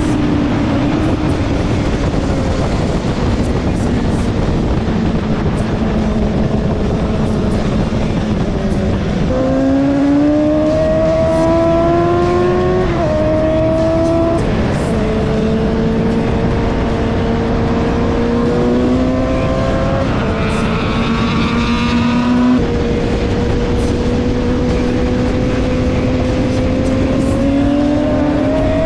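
Suzuki GSX-S 750's inline-four engine heard onboard at track speed over steady wind rush. Its note sags slowly for the first several seconds. About nine seconds in it climbs hard, rising through the gears with several quick drops in pitch at the upshifts, and pulls up again near the end.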